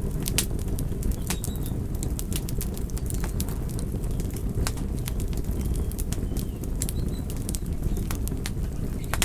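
Wood campfire burning: a steady low rumble of flames with irregular sharp crackles and pops, several a second.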